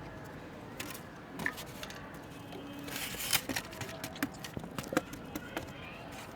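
Handling noise: a run of rustles, crackles and sharp clicks, with a louder, denser rustle about three seconds in.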